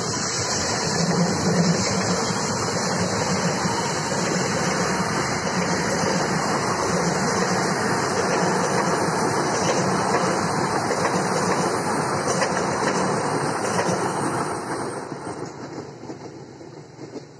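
A passenger train hauled by a diesel locomotive passing: the locomotive's engine runs at first, then there is the steady rolling noise of the coaches' wheels on the rails. The noise fades away over the last few seconds as the train moves off.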